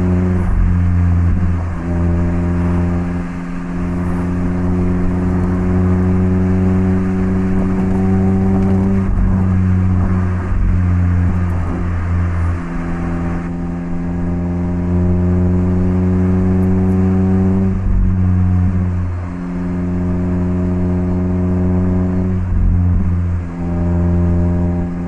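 Mazda ND Roadster's 1.5-litre four-cylinder engine through an HKS Legamax Sports aftermarket exhaust, pulling under way. The note climbs gradually in pitch, then dips briefly and starts again about four times, as the car shifts up through the gears.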